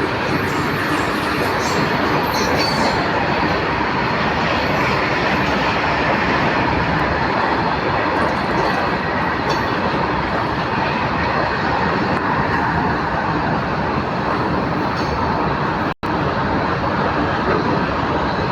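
Goods train running along the track: a steady, loud rumble of wagons and wheels on the rails. The sound drops out for an instant near the end.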